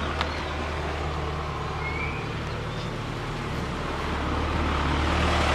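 Steady low rumble of a vehicle engine with traffic noise, growing a little louder in the last couple of seconds.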